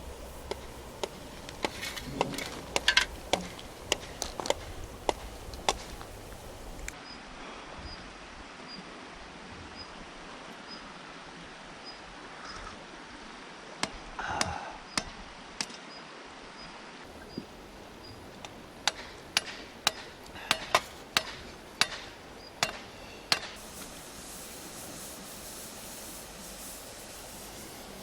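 Irregular sharp knocks and taps coming in several separate bursts, with quieter stretches between them.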